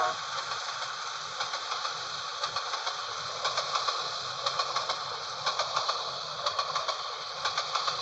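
Iron-ore freight wagons rolling past on the rails, their wheels clicking over the rail joints in quick pairs every second or so over a steady rolling hiss.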